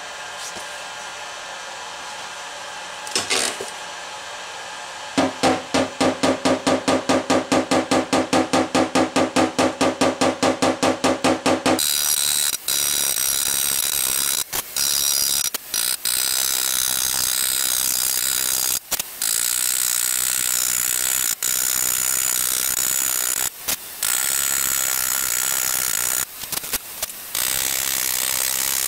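Knockdown tool being hammered on a car fender's high spots, rapid ringing taps at about five a second for several seconds. Then a louder steady hiss with faint high whines takes over, broken by short gaps.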